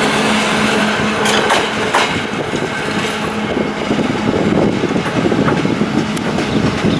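A train moving on the station tracks: a continuous rumble of wheels on rail with a few sharp clicks in the first two seconds, and a steady hum that fades out about two seconds in.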